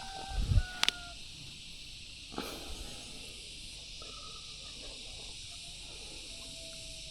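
Outdoor ambience: a steady high hiss, with a few short whistled tones, a couple of sharp clicks and some low knocks near the start.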